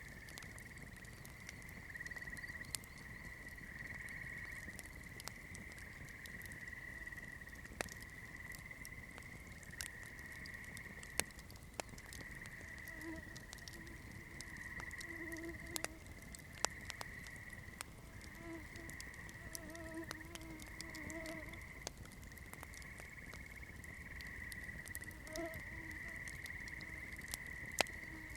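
Wood campfire crackling, with sharp pops coming at irregular intervals over a soft low rush of the flames. A steady high-pitched trill runs behind it.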